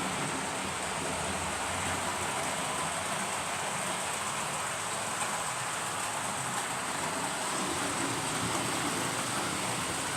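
English Electric Type 3 (Class 37) diesel locomotive, its 12CSVT V12 engine running steadily, heard as an even hiss with a low engine hum and a steady high whine over it.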